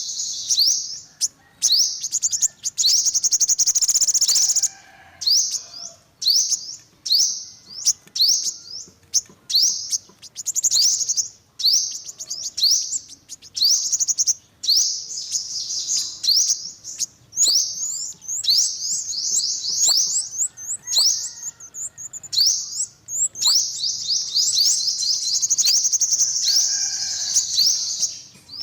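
Olive-backed (yellow-bellied) sunbird singing: fast runs of high, thin chirps and trills, each run lasting one to a few seconds, with short gaps between them.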